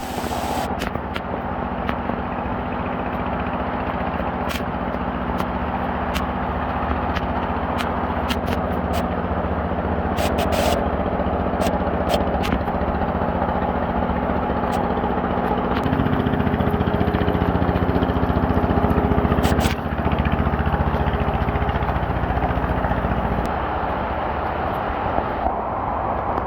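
Steady heavy rain with a motor humming underneath; the hum shifts in pitch about two-thirds of the way through and stops near the end, and scattered clicks and taps come through.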